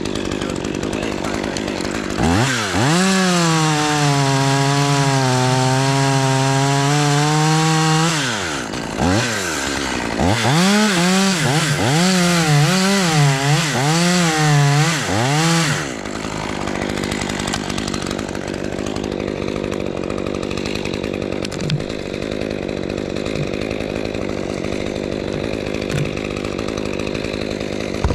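Two-stroke chainsaw revved to full throttle twice, about two seconds in and again about ten seconds in. The second time its pitch wavers up and down as the chain works through oak, before it drops back to a low running note for the rest of the time.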